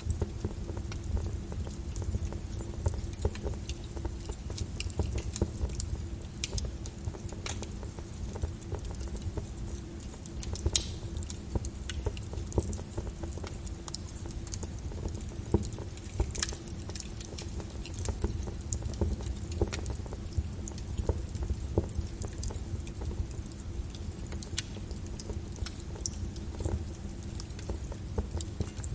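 Wood fire in a fireplace crackling, with a steady low rumble and irregular small pops and snaps. A sharper snap comes about eleven seconds in and another about fifteen seconds in.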